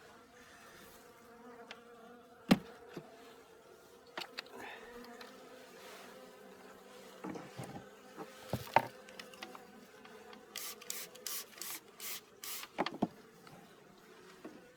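Honeybees buzzing steadily around an opened hive, with a few sharp knocks and clicks from the frames and hive parts being handled, and a run of short scraping sounds about two-thirds of the way through.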